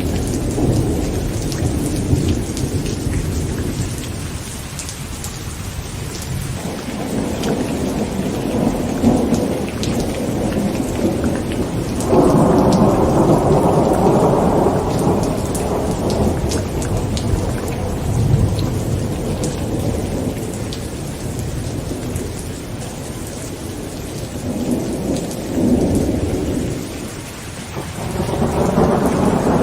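Heavy rain pattering on a tent with thunder rolling continuously underneath. The rumble swells and fades several times, loudest about twelve seconds in and again near the end.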